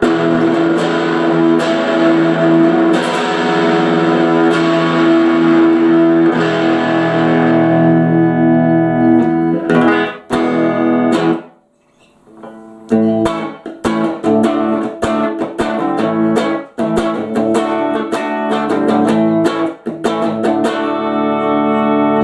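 1966 Fender Telecaster electric guitar played through an amplifier, with chords left ringing. The playing stops briefly about halfway, then picks up again with more chords and picked notes.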